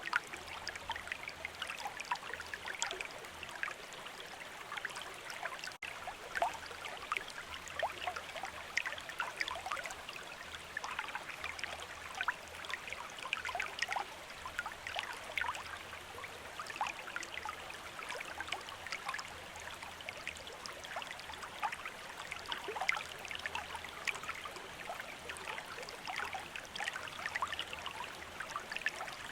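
River water running steadily, a continuous babble of many small splashes, with a brief dropout about six seconds in.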